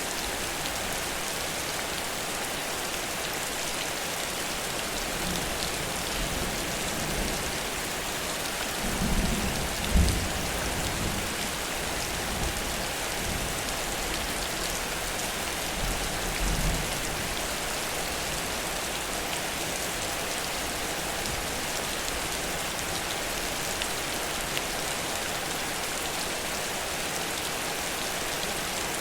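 Heavy rain falling steadily, with low rumbles of thunder that swell around a third of the way in and again a little past halfway.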